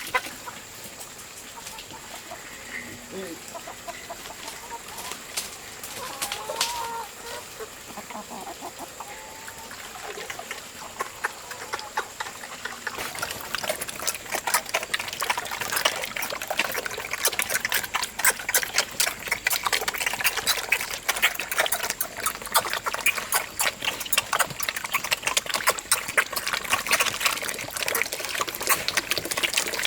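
Chickens clucking, with short calls early on. About halfway through, a dense, irregular patter of quick clicks and taps starts and becomes the loudest sound.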